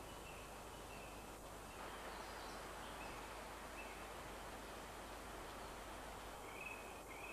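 Forest ambience: a steady hiss with small birds chirping faintly now and then, short high calls repeated several times, the clearest near the end.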